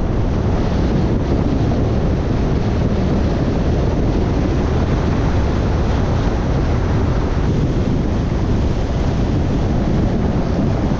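A loud, steady rushing rumble, heaviest in the low end, with no distinct tones or separate knocks.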